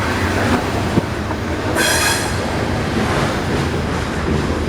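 Freight train of loaded coal cars rolling past with a steady rumble, and a brief high-pitched metal wheel squeal about two seconds in.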